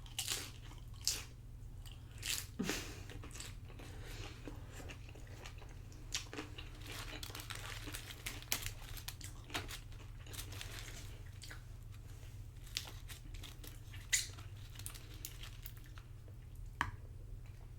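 A person biting and chewing crunchy tortilla chips of loaded nachos close to the microphone, a run of sharp crunches and crackles at irregular intervals.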